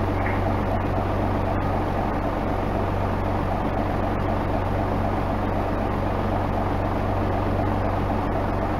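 Isuzu Erga Mio (KK-LR233J1) bus's diesel engine running with a steady low hum that holds even, without revving up or down.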